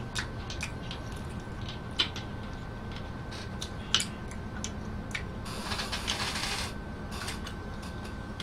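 Close-up eating sounds: chewing and mouth clicks, with two sharper clicks about two and four seconds in. Just past the middle comes about a second of hissing as the cap of a plastic soda bottle is twisted open, before drinking from it.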